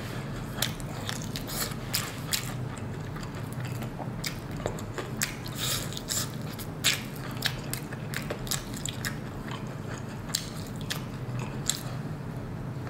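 Crispy battered fried chicken wing being bitten and chewed: irregular crunches and crackles of the fried crust as it is eaten off the bone.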